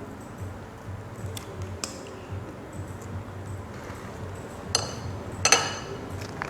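Light clinks and taps of tableware and utensils on dishes: a couple of single clicks, then a louder cluster of ringing clinks near the end, over a steady low hum.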